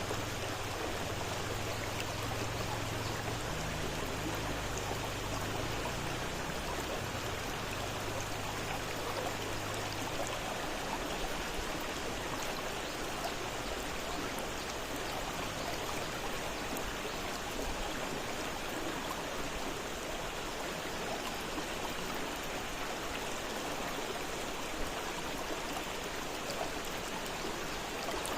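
Fast-flowing river: a steady, even rush of water.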